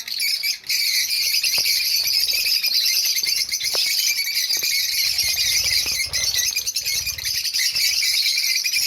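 A flock of kept small birds chirping and chattering together, a dense, continuous, high-pitched twittering of many overlapping calls.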